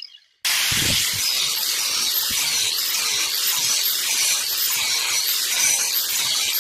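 A workshop tool working on metal, giving a steady high hiss with a faint repeating pulse about twice a second, starting abruptly about half a second in.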